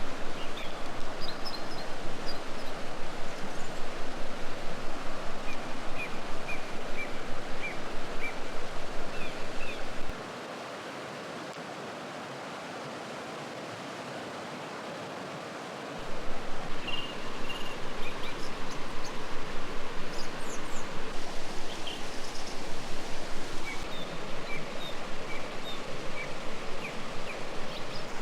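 Steady outdoor ambience of flowing river water, with small birds chirping now and then. Under it runs a fast, low, regular pulsing, about three beats a second, which stops for several seconds in the middle and then returns.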